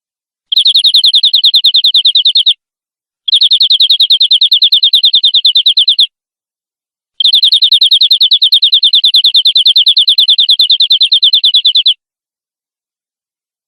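Domestic canary singing three rolling trills of rapidly repeated, even notes, about eight a second. The trills run about two, three and five seconds, with short silent gaps between them.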